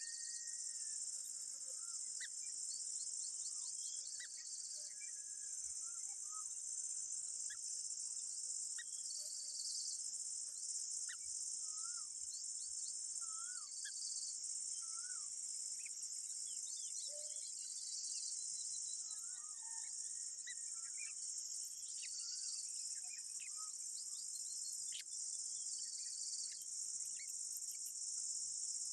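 Steady, high-pitched drone of an insect chorus that dips briefly every few seconds. Scattered short bird chirps sound over it.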